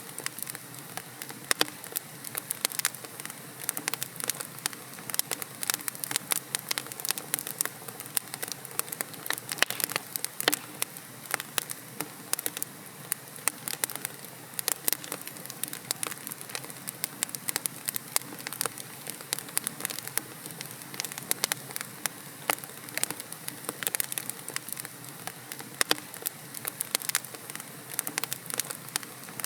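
Wood fire in a fireplace, logs crackling and popping: a steady hiss under dense, irregular sharp snaps, several a second.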